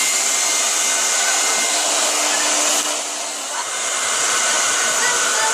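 Hair dryer blowing steadily, with a brief drop in level a little past the middle.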